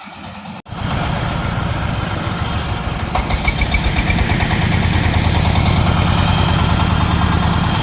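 An engine running steadily with a deep rumble, cutting in abruptly about half a second in and growing a little louder about three seconds in.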